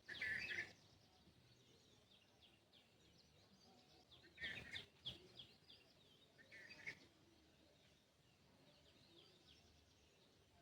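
Wild birds calling in the morning: a few loud, short bursts of song right at the start, about halfway through and again a little later, over fainter, quick chirps from more distant birds.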